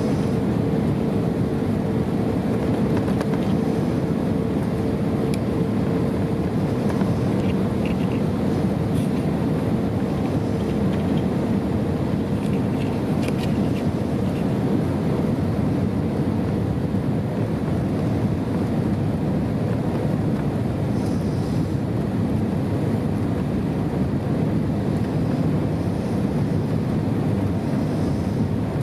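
Airbus A320 passenger-cabin noise in flight: the steady, even rush of jet engines and airflow, with a faint steady hum that fades out about twelve seconds in.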